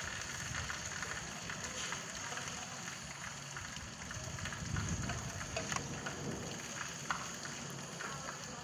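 Steady rain falling, with many separate drop impacts heard as short ticks over an even hiss. A low rumble swells briefly about halfway through.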